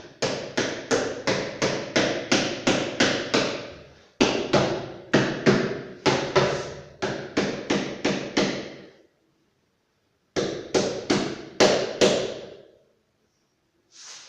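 Hammer blows struck in quick, even runs of about three to four a second, each with a short ring. There are three bursts with brief pauses between them.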